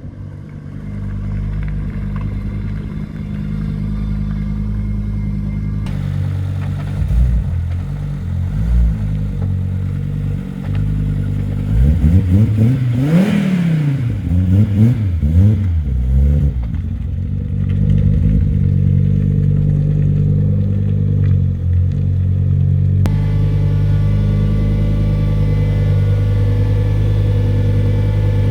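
Turbocharged Volvo B5244S five-cylinder engine idling, with short throttle blips, then revved up and back down a few times about halfway through before settling back to idle.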